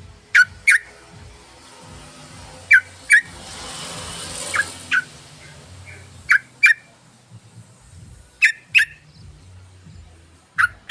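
Yellow-vented bulbul (trucukan) calling: short, sharp notes in pairs, each note dropping quickly in pitch, with a pair about every two seconds. A faint hiss rises and fades around the middle.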